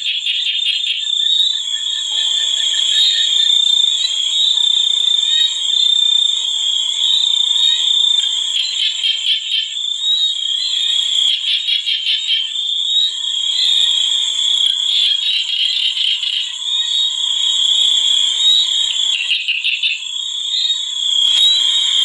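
Nature chorus of calling frogs and insects: a steady high-pitched trill overlaid with rapid pulsing calls that swell and fade every few seconds.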